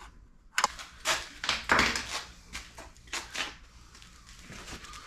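Metal tools and parts being handled on a workbench: a handful of short knocks and scrapes over the first three and a half seconds, then quieter.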